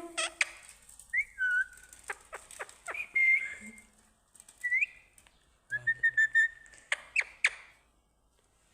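Pet parrot whistling short notes that glide up and down, mixed with sharp clicks and chirps.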